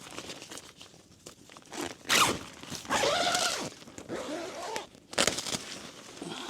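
A tent door zipper being pulled open in several quick strokes, with rustling of tent fabric and crunching.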